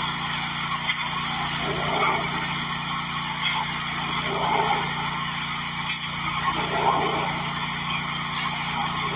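Gas-engine pressure washer running steadily, with a louder swell every second or two over its steady hum and hiss.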